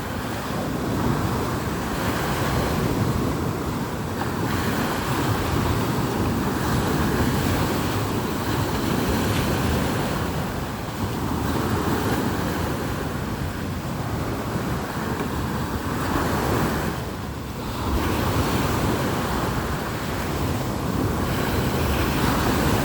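Stormy surf breaking on a beach, a continuous rushing wash that swells and eases, with strong wind buffeting the microphone.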